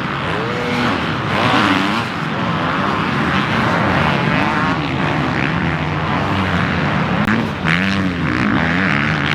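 Several motocross bikes' engines revving hard and dropping off again as they race, their pitches rising and falling and overlapping.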